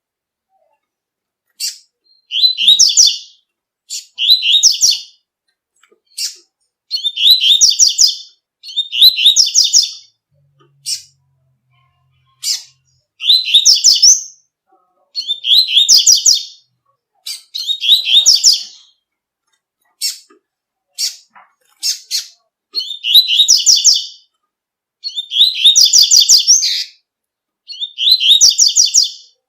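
Double-collared seedeater (coleiro) singing the 'tui-tui' song: short, high phrases of rapid notes, each about a second long, repeated every two seconds or so, with brief single chips between them.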